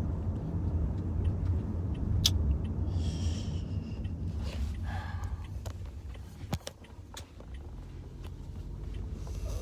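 Steady low rumble of a car driving, heard from inside the cabin, dropping off briefly about two-thirds of the way through and then building again, with a few light clicks.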